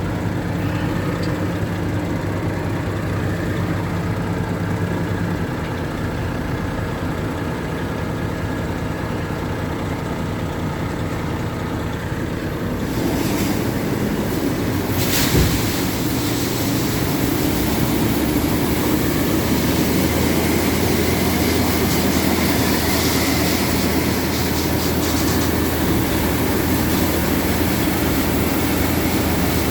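Heavy vehicle engine running steadily. About 13 s in it turns louder and rougher, and there is a single sharp knock around 15 s in.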